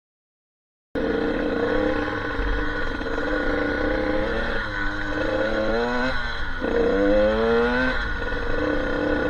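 Enduro dirt-bike engine running, cutting in suddenly about a second in, with its pitch rising twice as it is revved in the middle of the stretch.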